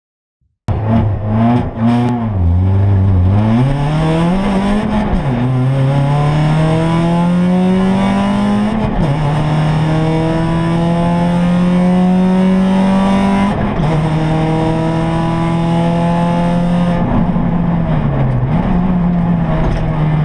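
Rally car engine heard from inside the cockpit, starting suddenly under a second in and pulling hard through the gears: the revs climb and drop back at each upshift, about three times, then hold fairly steady. Near the end the revs dip briefly and pick up again.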